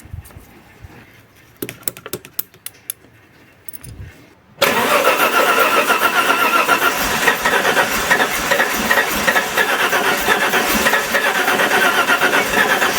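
Alfa Romeo 164's 2.0-litre V6 Turbo Busso engine, coming in loud and steady with a whine a little under five seconds in, after a few light clicks.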